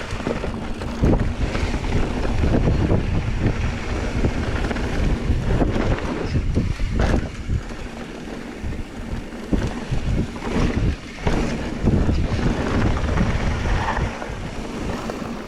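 Wind buffeting the camera microphone as a loud, gusting low rumble, with a few brief knocks or bumps.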